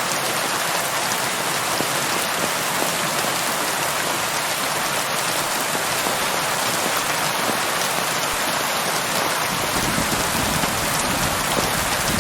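Steady heavy rain falling and pattering on surfaces, an even hiss. Near the end a low rumble of thunder begins to build underneath.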